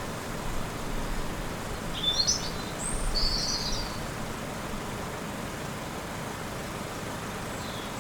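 A few short bird chirps about two to three seconds in, over steady outdoor background noise.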